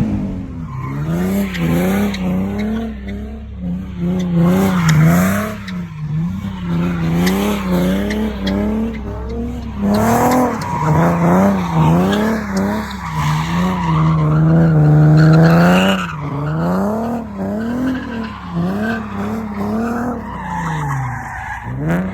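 Nissan 370Z's V6 through a full ISR exhaust, revving up and down over and over as the car drifts, with the tyres squealing.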